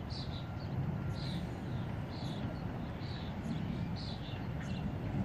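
Birds chirping, short high calls repeating every half second or so, over a steady low rumble.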